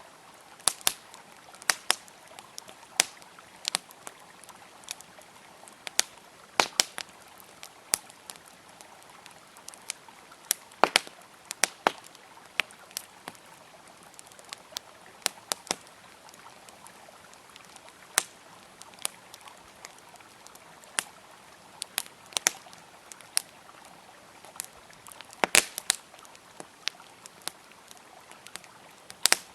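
Wood campfire crackling, with sharp pops and snaps at irregular intervals, some in quick clusters, over the steady rush of a flowing river.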